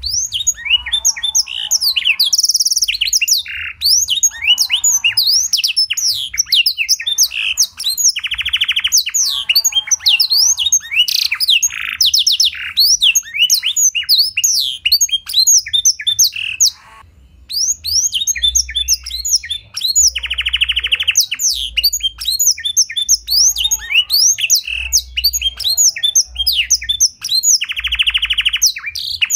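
Canary singing a long, fast song of chirps and trills in blackthroat style, broken by several buzzy rolls about a second long, with a brief pause a little past halfway.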